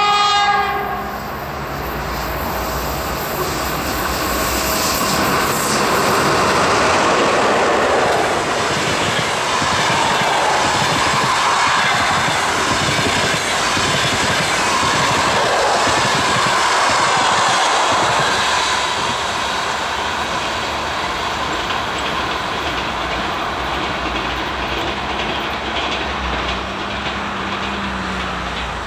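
EP1M electric locomotive's horn, ending within the first second, then the passenger train running past: a loud rush of wheels on the rails as the carriages go by, easing off as the train moves away.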